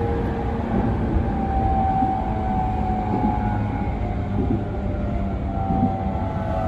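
Cabin running sound of an unrenewed E231-1000 series electric train's motor car at speed: wheels rumbling on the rails under the whine of the traction motors and inverter, with a strong low hum. Several whining tones sit in the middle register and glide slightly up and down.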